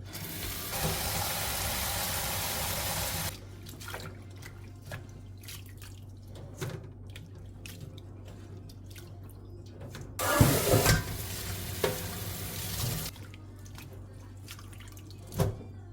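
Kitchen tap running into a sink in two bursts, about three seconds each, with clicks and knocks of things being handled in between.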